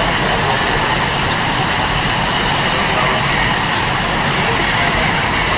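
Loud, steady rushing noise with no rhythm or tone.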